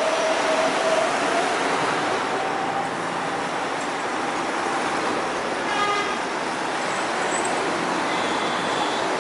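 Steady traffic noise of passing trucks and cars, with a brief horn toot about six seconds in.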